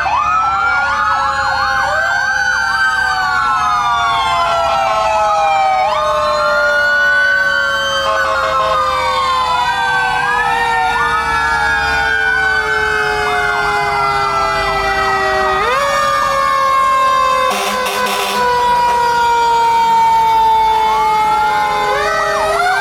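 Several fire truck sirens sounding at once: a long, slowly falling wail that winds back up about 16 seconds in, over quicker rising-and-falling wails. A brief burst of noise cuts in about three-quarters of the way through.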